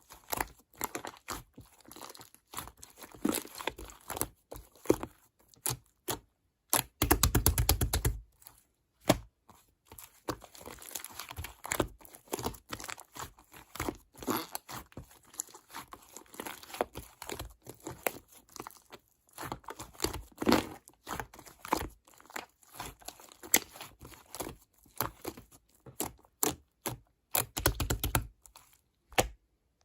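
Close crinkling, tearing-like rustles and many small irregular clicks. Twice, about seven seconds in and near the end, comes a louder buzzing rattle about a second long.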